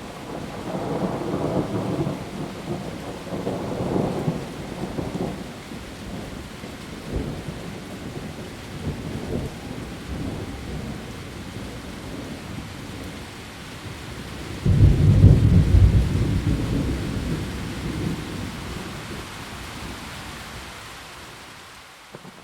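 Heavy rain falling steadily on leaves, with thunder: rolling rumbles in the first few seconds, then a louder low rumble that breaks in suddenly about two-thirds of the way through and fades over a few seconds.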